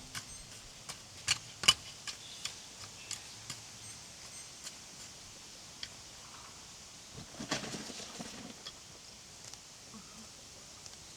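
Scattered light clicks and knocks of objects being handled, the sharpest about one and a half seconds in, with a short cluster of knocking and rustling about seven seconds in.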